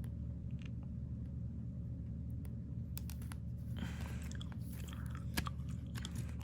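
Trading cards being handled and slid over one another: soft scrapes and light clicks, with a brief rustle about four seconds in, over a steady low hum.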